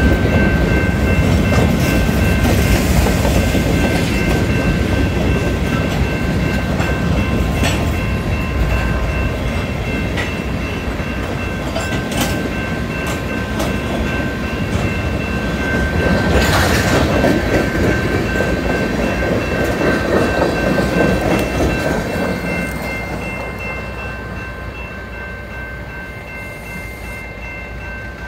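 Freight cars (covered hoppers and tank cars) rolling past with a heavy wheel rumble and clatter, and steady high ringing tones over it. The sound fades over the last several seconds as the tail of the train moves away.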